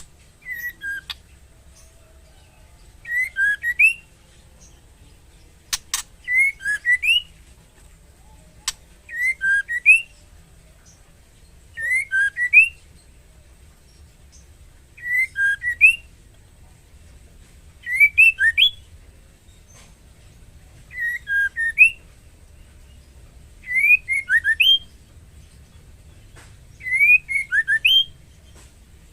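Female white-rumped shama calling in breeding condition to draw a male: a short phrase of a few quick whistled notes, repeated about every three seconds. A few sharp clicks sound in the first several seconds.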